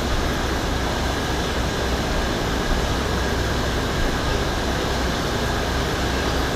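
Steady background hum and hiss that does not change, with no distinct knocks or clicks.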